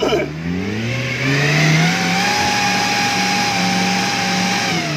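Small off-road 4x4's engine revving hard under load as it climbs a muddy rutted slope. The revs jump up suddenly at the start and climb over the first second or so, hold high and steady, then drop away near the end.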